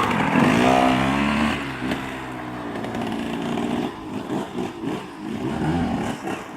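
85cc two-stroke motocross bike engine revving hard, its pitch rising and falling; loudest in the first second and a half, then quieter with the revs surging up and down.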